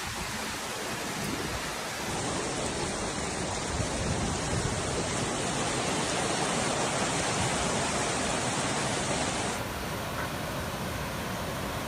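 Steady rushing noise of heavy rain and floodwater pouring through flooded streets, with the sound changing abruptly about two seconds in and again near the end as one clip gives way to another.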